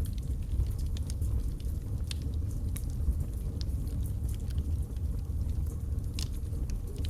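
Wood fire burning in a fireplace: a steady low rumble from the flames with frequent sharp crackles and pops from the burning logs.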